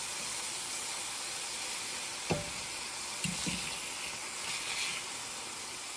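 Thin pheasant breast pieces sizzling steadily in hot fat in a frying pan, with a few light knocks of a metal fork against the pan a little past the middle as the pieces are turned.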